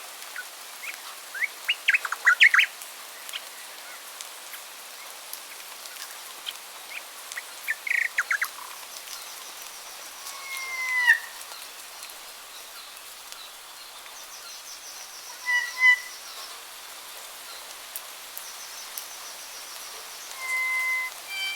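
Several wild birds calling, one after another. A quick run of sharp chirps comes about two seconds in, a whistled note slides down around ten seconds, short paired notes follow, and a clear held whistle sounds near the end, all over a steady background hiss.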